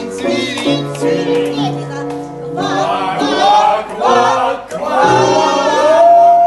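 A song: singing voices over instrumental accompaniment, with long held and gliding sung notes toward the end.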